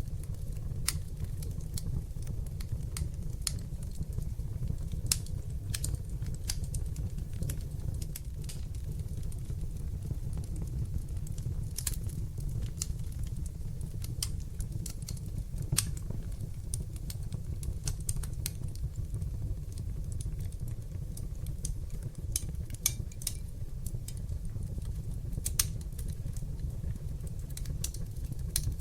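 Wood fire burning in a fireplace, crackling with many irregular sharp pops over a steady low rush of the flames; a few pops stand out louder.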